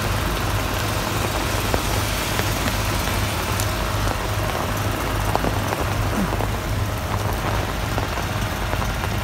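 Heavy rain falling on a wet street, an even hiss of drops, with a steady low engine hum underneath.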